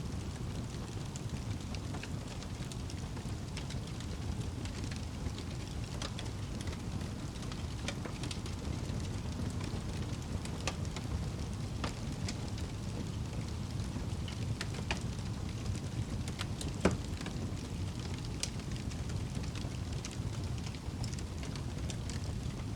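Wood fire burning in a fireplace: a steady low rumble of flames with scattered sharp crackles and pops, one louder pop about seventeen seconds in.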